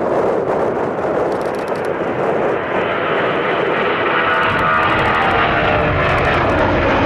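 Jet airliner's engines growing louder as the aircraft approaches: a broad rushing noise with a whine that rises in level partway through, and a deep rumble coming in near the end.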